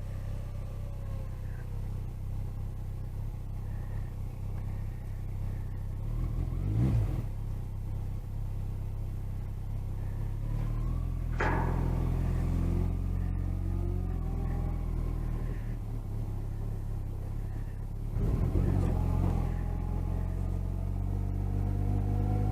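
Engine idling steadily while vehicles drive past one after another, each swelling louder as it passes and revving up as it pulls away, about 7, 11 and 19 seconds in.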